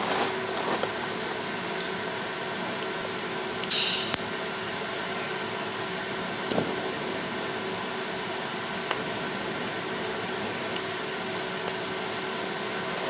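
Steady machine hum with several fixed tones, like a running fan. A short hiss just under four seconds in, and a few light clicks and taps.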